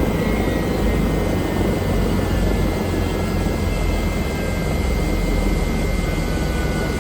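Bell helicopter running steadily: a continuous low drone with a thin, steady high whine above it.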